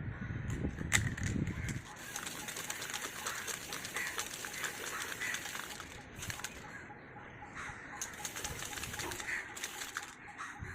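Aerosol spray paint can spraying in two long bursts, a steady hiss for about four seconds and then again for a second or two near the end, as a final coat of matte black paint goes onto a motorcycle helmet.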